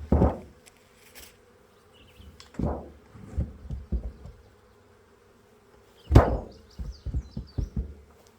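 Honeybees humming steadily around the hive, broken by three clusters of loud, dull bumps and knocks: one at the start, one about two and a half seconds in, and the loudest about six seconds in.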